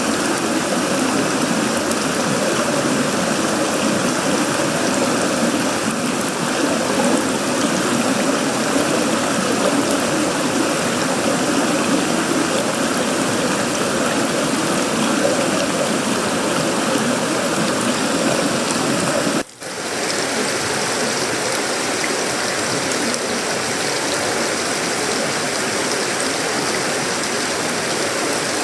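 Heavy tropical rain falling steadily on sheet-metal roofing, wood and leaves, a dense, even downpour. It cuts out for a split second about two-thirds of the way through, then resumes.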